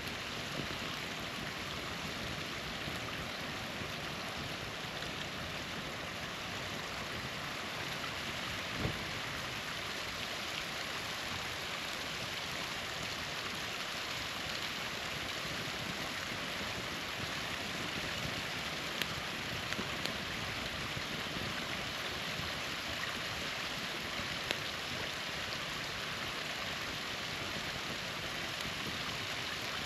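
Steady rushing of a small waterfall, with a handful of sharp pops and snaps from a campfire burning close by.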